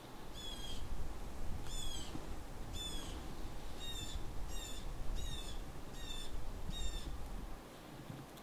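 A bird calling repeatedly: about nine short, high calls, each dropping slightly in pitch, roughly one a second, over a low rumble that stops near the end.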